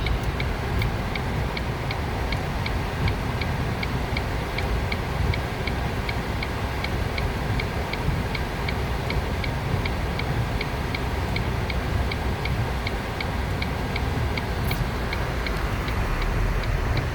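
Car turn signal ticking steadily, about two to three clicks a second, over the low rumble of the car driving on a snowy road, heard inside the cabin.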